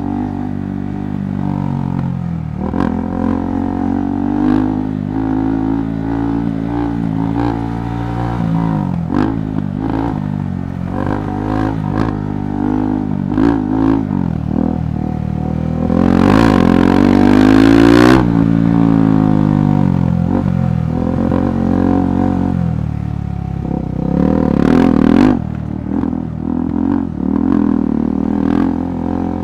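KTM 390 Adventure Rally's single-cylinder engine being ridden over rough ground, its revs rising and falling with the throttle, with the hardest rev about halfway through and another near the end. Short clattering knocks come through along the way.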